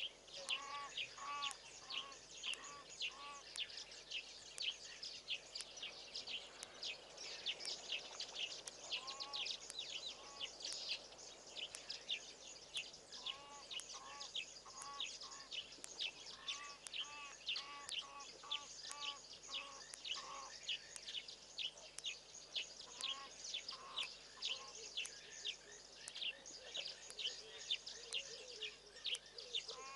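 Wild birds calling in the bush: a steady run of quick, high chirps, several a second, with another bird repeating short, lower notes in runs of several at a time.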